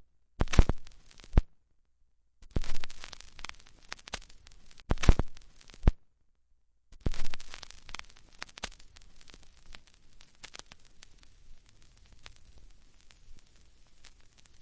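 Vinyl record noise: a few short bursts of scraping and crackle, cut off abruptly, then from about seven seconds in a steady surface crackle with scattered pops that grows fainter.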